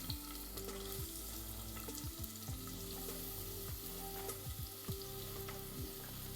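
Chopped onions sizzling in hot oil in a pressure cooker, with scattered clicks of a spoon stirring them against the metal pot.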